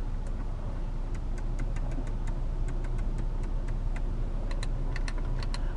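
Irregular sharp clicks of climate-control buttons and dials being worked, over the steady low hum of an idling Audi RS Q3 engine.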